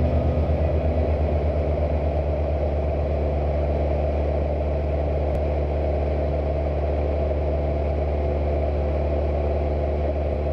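Cessna 172's piston engine and propeller droning steadily. It pulses in a rhythmic beat for the first couple of seconds, then settles into an even drone.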